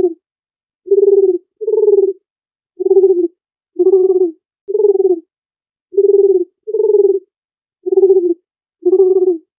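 Dove cooing: about ten short, low coo notes, roughly one a second, some coming in close pairs, with dead silence between them.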